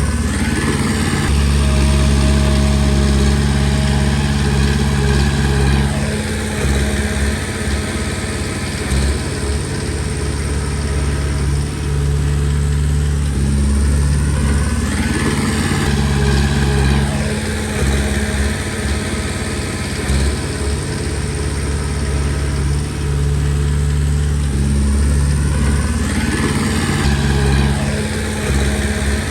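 Komatsu D20P bulldozer's diesel engine running steadily while working, its pitch rising and falling again every ten seconds or so as the machine works through its passes.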